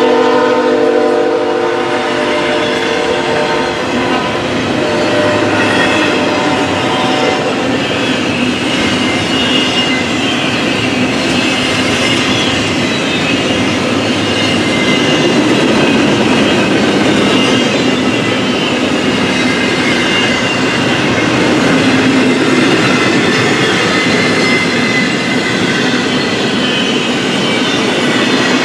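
Freight train horn sounding for the first few seconds, then fading away. A long CSX double-stack intermodal train of container well cars keeps rolling past loudly and steadily on the rails, with faint high wheel squeal at times.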